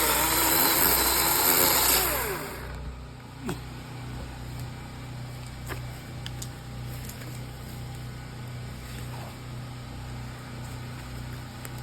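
Chainsaw running at full throttle for about two and a half seconds, then revving down to a steady low idle.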